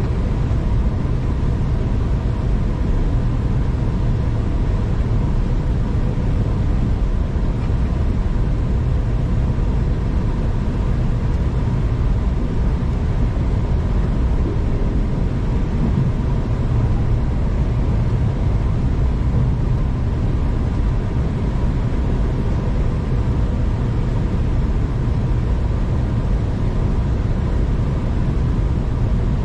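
Steady running noise of a moving passenger train: a constant low rumble with a faint even hum on top, unbroken throughout.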